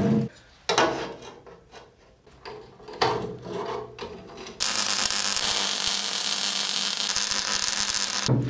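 Workshop tool work: a few scraping, rubbing strokes, then a power tool runs steadily for about four seconds and stops suddenly.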